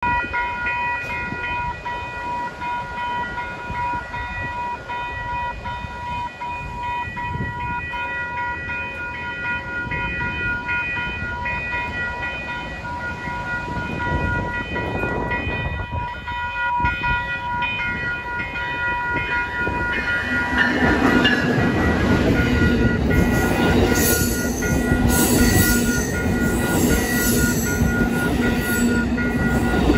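Railroad crossing warning signal sounding steady tones over background noise. About 20 seconds in, a passenger train arrives and passes close by the crossing, loud, with high-pitched squeaks and clatter from its wheels and cars.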